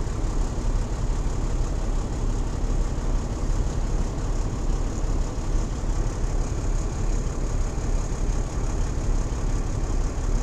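Peterbilt 379 truck's diesel engine running steadily with a low, even hum, heard from inside the cab.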